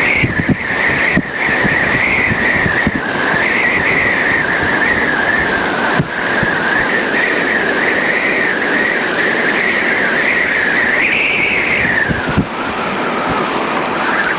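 Car interior noise while driving: a steady rush of road and wind noise with a few low bumps, and a high whine wavering in pitch that falls away about twelve seconds in.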